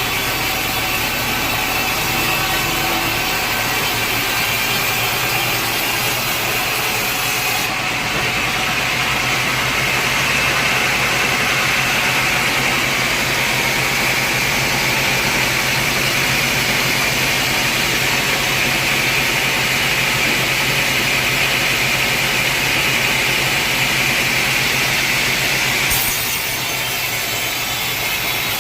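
Sawmill saw cutting lengthwise through a large teak log, with a steady grinding hiss from the blade in the wood. The cut grows stronger about eight seconds in and eases off near the end, leaving the machine running.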